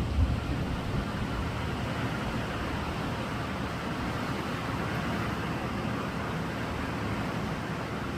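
Sea surf: waves breaking and washing on the shore as a steady rush that swells a little about halfway through, with a few low thumps of wind on the microphone at the start.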